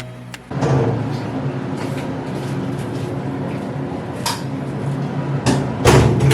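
Steady low hum with a few short knocks and clicks, about half a second in, around four seconds in, and a louder one near the end.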